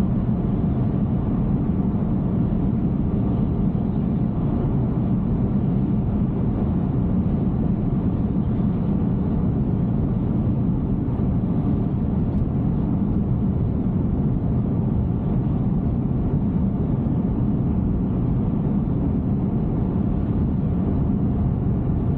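Steady road and tyre noise of a Tesla Cybertruck cruising at highway speed, around 72 mph, a low, even rush with no changes.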